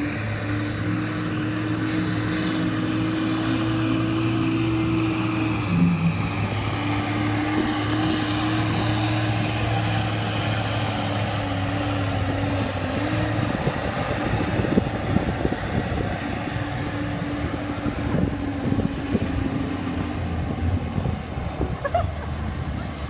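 Pulling tractor's engine running hard under load as it drags the weight sled, holding a steady, loud note with a brief dip about six seconds in. From about 14 seconds in the even note breaks up into a rougher, irregular sound.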